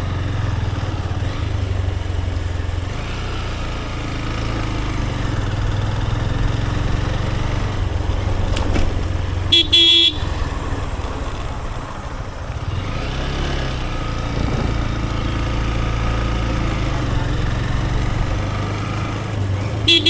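Motorcycle engine running steadily while riding along a road. Its horn sounds a short beep about halfway through and two quick beeps at the end.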